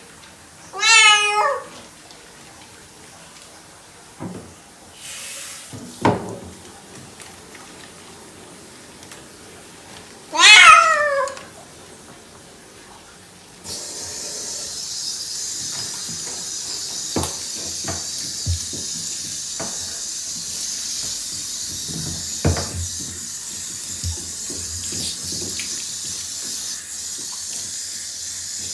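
Bengal cat giving two loud, long meows about ten seconds apart. About halfway through, running water hisses on suddenly and steadily, with scattered knocks and clunks.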